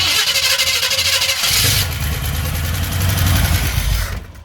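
Truck engine that hasn't been run in a while cranking over on starting fluid and catching about a second and a half in. It runs briefly while the gas is feathered, then dies out near the end.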